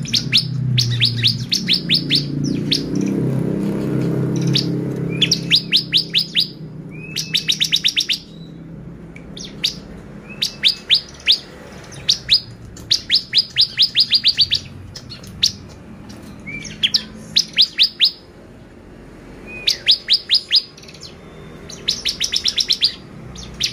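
Bar-winged prinia (ciblek) singing: quick runs of sharp, high chirps, six to ten notes each, repeated every second or two. A low rumble lies underneath for the first several seconds.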